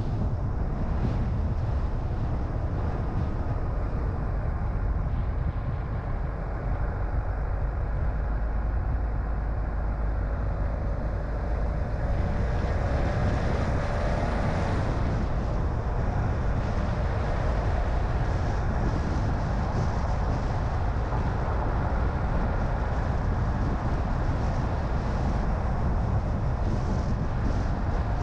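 A car on the move: a steady low rumble of road and wind noise. About halfway through, a faint engine whine rises in pitch.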